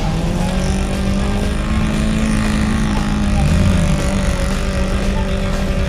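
Off-road vehicle engine running at steady revs, with a short rise and fall in pitch about three and a half seconds in.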